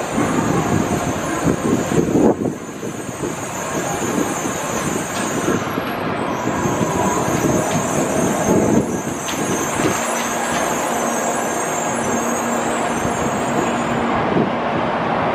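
Tokaido Shinkansen train pulling slowly along the platform and coming to a stop: dense mechanical running noise with heavier surges about two and eight seconds in. A high whine runs over it, breaks off briefly about six seconds in and stops near the end, and a low steady hum sets in about ten seconds in.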